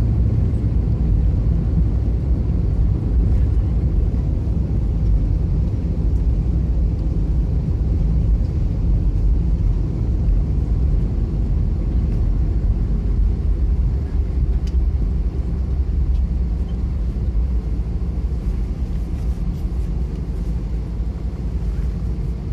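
Steady low rumble inside an Airbus A320 passenger cabin, the airliner's engine and airframe noise on the ground just after landing, easing off slightly near the end.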